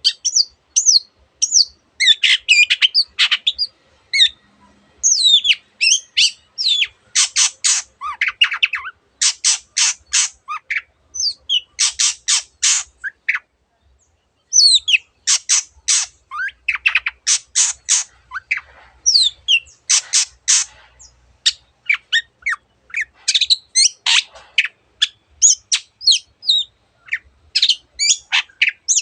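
Long-tailed shrike (cendet) singing a fast, varied song: runs of harsh rasping notes alternating with whistled, gliding phrases, with imitations of other birds' calls mixed in. A short pause comes about halfway through.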